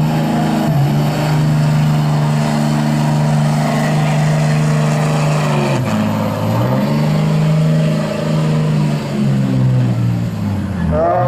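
Diesel pickup truck engine running flat out under heavy load as it pulls the sled. Its pitch holds high and steady, sagging and then climbing back about a second in, again around six seconds in, and once more near the end.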